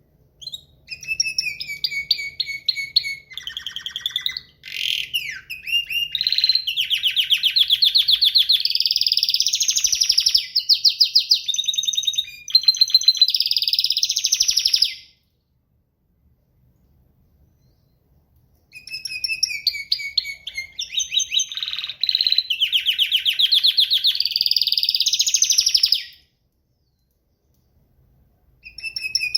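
A songbird singing long, fast, varied songs of rapid trills and repeated high notes, in two bouts with a pause of a few seconds between them.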